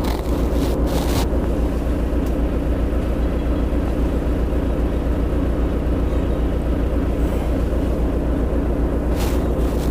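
Flatbed truck's diesel engine running steadily with an even low throb.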